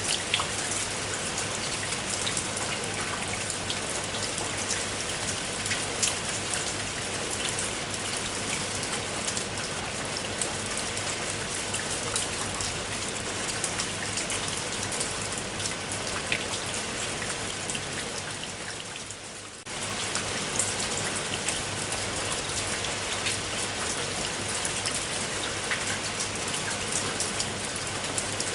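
Steady rain: an even hiss with many individual drops pattering and ticking. About two-thirds of the way through it briefly fades down, then cuts straight back in at full level.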